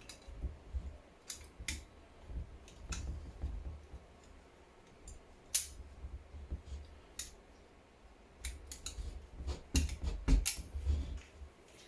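Irregular sharp clicks and light knocks, with soft low thuds, from tools and parts being handled in a workshop.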